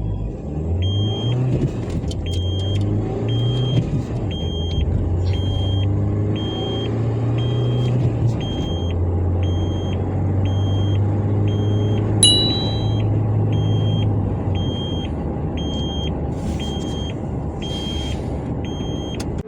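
Mahindra Scorpio-N's 2.0-litre turbo-petrol four-cylinder accelerating hard from a standstill, its note rising and then dropping back at gear changes about two, four and eight seconds in, then running steadier. A short electronic beep repeats about twice a second over it.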